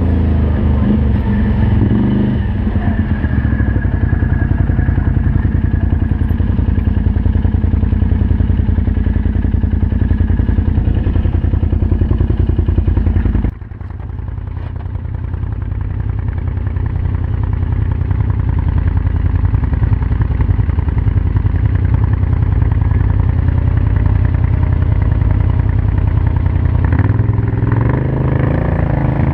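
Can-Am Outlander 500 ATV's V-twin engine running through an aftermarket Yoshimura exhaust under varying throttle. About halfway through the sound drops off suddenly as the throttle is let off, then builds back up as the engine pulls again.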